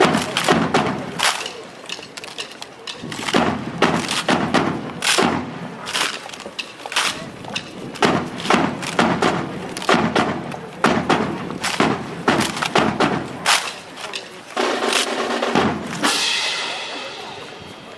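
A drill team's routine in a rapid, irregular series of sharp clacks and thumps: hands slapping rifles, rifle butts striking the ground and boots stamping in unison.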